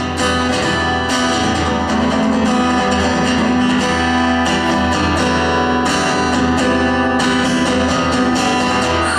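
Instrumental break of a song: strummed guitar with accompaniment playing steadily between sung verses.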